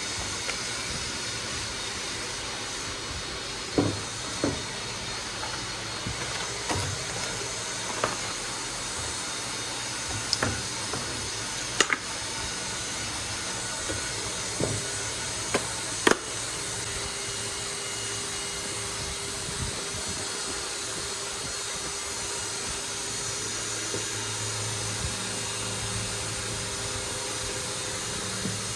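A steady hiss of rushing air or a running machine, with a series of sharp clicks and knocks during the first half, like tools or metal parts being handled.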